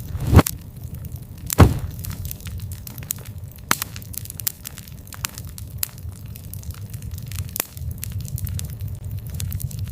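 Campfire crackling and popping, with sharp snaps over a low rumble of burning; two loud pops stand out about half a second and a second and a half in.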